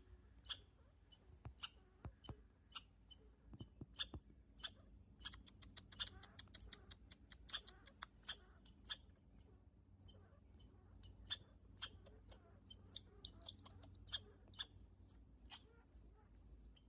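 Footsteps on a trail, walking at a steady pace of a little under two steps a second, each step a short crunch.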